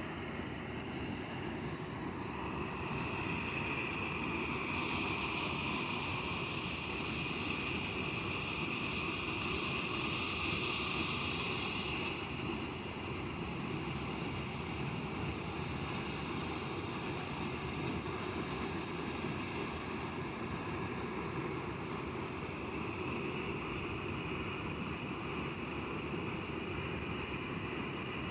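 Waterfall rushing: the steady noise of falling water.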